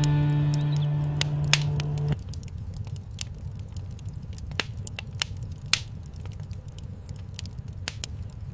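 The last held note of a Turkish folk song fades and cuts off about two seconds in, leaving a fireplace fire crackling, with irregular sharp pops over a low rumble.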